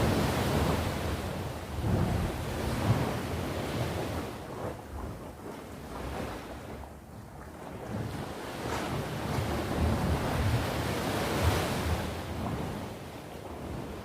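Ocean surf: waves breaking and washing up the shore in slow swells, loudest at the start and again about two-thirds of the way through, easing in between.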